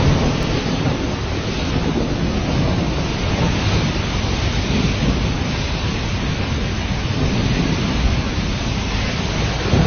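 Violent rainstorm: a steady roar of heavy rain and wind, with a deep rumble underneath.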